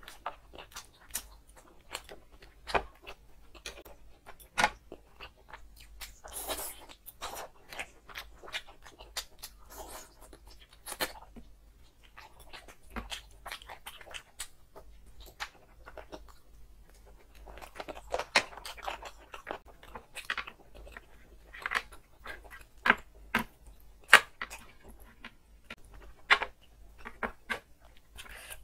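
Close-miked eating sounds: chewing and crunching on curried meat and bone, a dense, irregular run of sharp wet mouth clicks and smacks.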